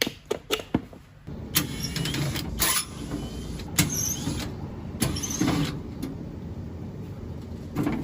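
Clicks and metal knocks of an air conditioner's outdoor unit being opened up, its cover panel unscrewed and handled, over a steady low background hum that starts about a second in.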